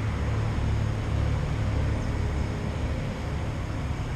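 Steady low rumble of road traffic passing on a nearby road.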